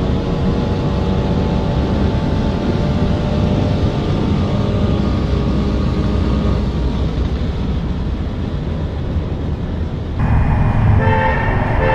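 Car engines running hard at highway speed, with wind and road noise, heard from a car following another. About ten seconds in, the sound cuts abruptly to inside a car's cabin, where the engine is a little louder.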